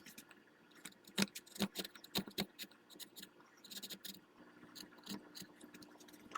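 Hand chisel paring small shavings from a walnut gunstock: a string of irregular short clicking cuts and scrapes, with a brief longer scrape about four seconds in.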